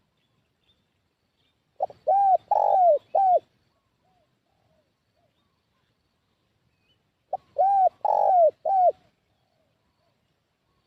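Spotted dove (tekukur) cooing its lure call: twice, a short note followed by three arched coos, the middle one longest, about five seconds apart. Faint calls of other birds sound between the phrases.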